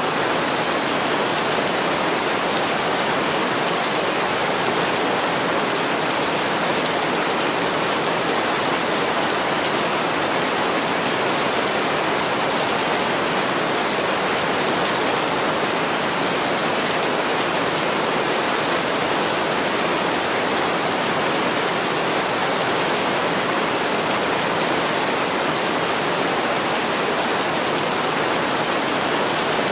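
Heavy rain pouring steadily on a window pane, an even, unbroken hiss with no distinct drops or crackles standing out.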